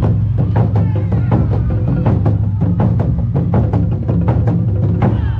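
Awa Odori festival percussion: taiko drums and other struck instruments playing a fast, driving beat, with a heavy low drum sound under quick sharp strikes.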